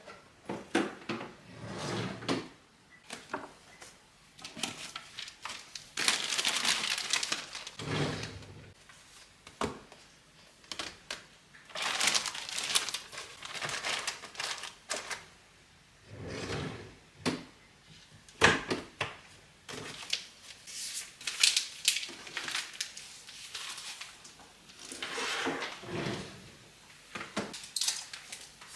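Household handling sounds: repeated clicks and knocks of objects being picked up and set down, with several longer rustling or scraping stretches of a second or two.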